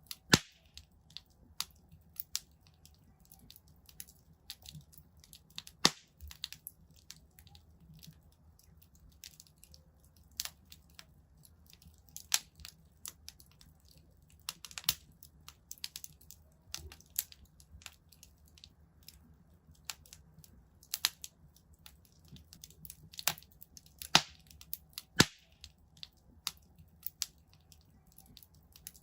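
Wood fire in a fireplace crackling: irregular sharp pops and snaps, a few louder ones standing out, over a faint low background.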